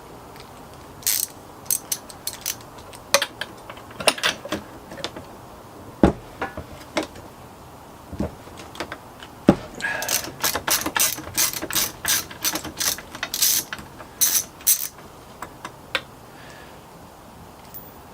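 Ratchet socket wrench clicking in short, irregular runs while backing a spark plug out of a chainsaw's cylinder head, with quicker runs of clicks from about ten seconds in.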